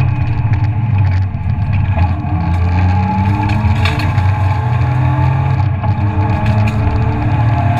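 BMW E36 323ti's inline-six engine running hard under load, heard from inside the stripped cabin, its pitch rising several times as it pulls through the gears. Tyre and road noise throughout, with a few sharp ticks near the middle.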